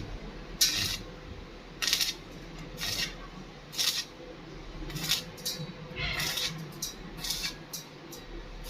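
Short scraping strokes on a stainless steel pipe joint, about one a second, each a brief high hiss.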